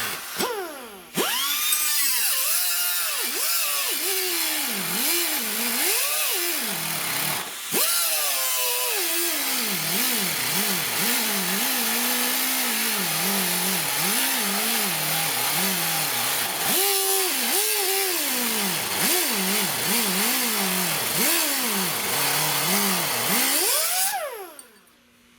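Power cut-off tool slicing through the car's sheet-metal pillar, its pitch dipping again and again as the wheel bites into the steel and rising as it eases off. It stops briefly about a second in and again about eight seconds in, and winds down near the end.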